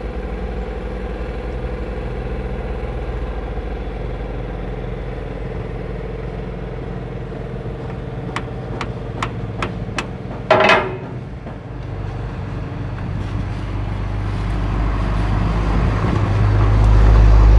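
An engine runs steadily with a low drone. About halfway through come a few sharp metallic clicks, then a louder ringing metal clang. The engine sound swells louder near the end.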